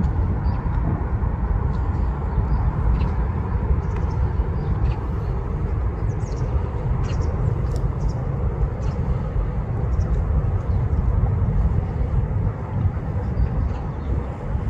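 Steady low outdoor rumble of wind and distant traffic, with faint short high calls scattered through it from the large bird flock.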